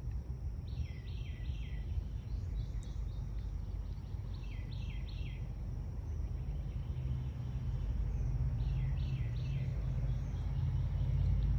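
A songbird calling three times in short runs of three or four quick notes, over a steady low rumble that grows a little louder toward the end.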